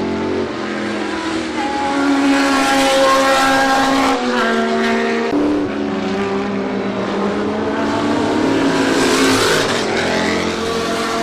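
Historic sports-racing car engines at racing speed, several cars overlapping with their pitch rising and stepping down as they shift gear; a higher engine note rises near the end.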